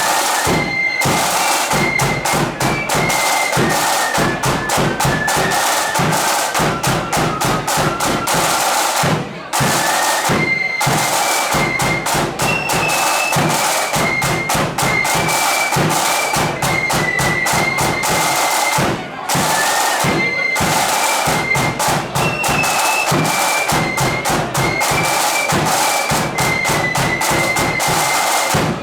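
Marching flute band playing: a unison flute tune carried high over rapid snare-drum strokes, with a brief break at the end of each phrase, about every ten seconds.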